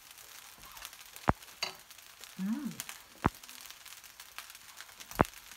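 Fried rice sizzling faintly in a nonstick wok, broken by sharp loud clicks about every two seconds, three of them.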